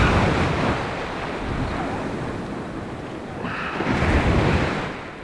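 Waves breaking on the beach: two surges of surf, one at the start and another about three and a half seconds in, with wind on the microphone.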